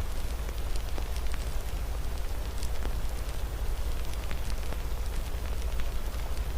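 Wood fire crackling, with irregular sharp pops, over a steady hiss of rain and a low rumble.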